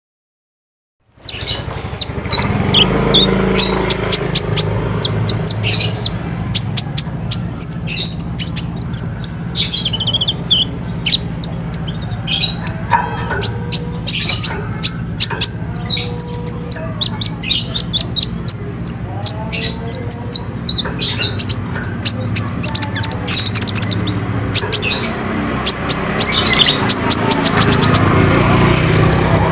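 Kolibri ninja (Van Hasselt's sunbird) singing: a fast, busy stream of sharp high chirps, twitters and trills, starting about a second in, over a steady low hum.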